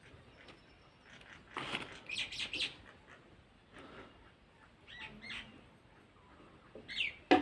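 Small birds chirping in short, scattered calls, with a louder sharp knock right at the end.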